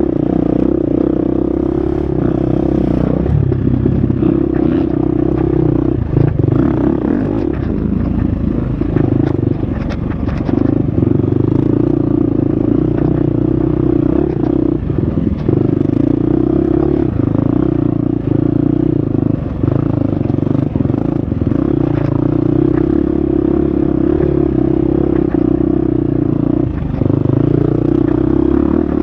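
Husqvarna FX 350 dirt bike engine running hard on the trail. The note dips briefly every few seconds as the throttle is rolled off and back on. Short clicks and clatter from the bike over rough ground run through it.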